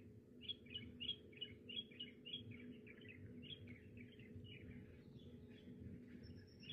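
A small bird chirping faintly in a quick, steady series, about four short notes a second, with a thin high whistling note joining near the end.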